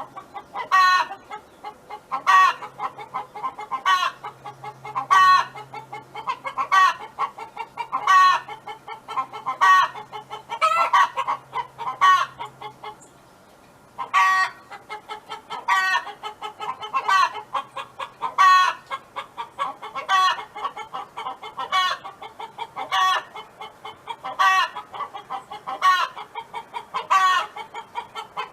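Domestic hen's repeated clucking song: a loud drawn-out note about every second and a half, with quieter clucks between, and a brief pause about halfway through.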